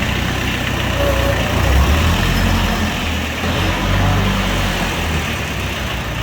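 A motor vehicle's engine running with a steady low rumble under general outdoor noise.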